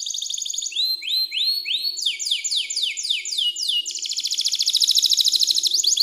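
Domestic canary singing: a rapid trill, then about a second in a run of upward-sweeping whistled notes, three or four a second, then from about four seconds in a fast, even trill again.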